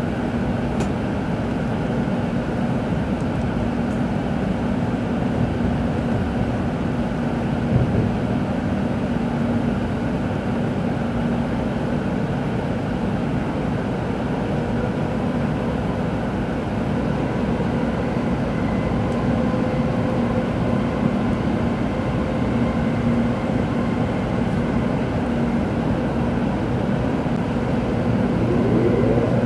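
Inside a Tokaido Shinkansen train running on the line: a steady rumble of wheels and running gear with a constant hum, and a short rising whine near the end.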